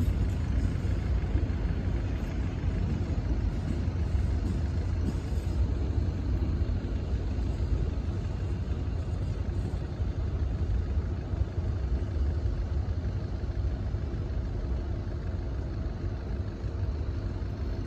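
Passenger train rolling away along the track: a steady low rumble of wheels on rail that slowly fades as it draws off into the distance.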